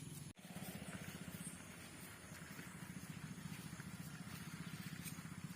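An engine idling steadily, a faint low hum with a fast even pulse, broken by a brief dropout just after the start.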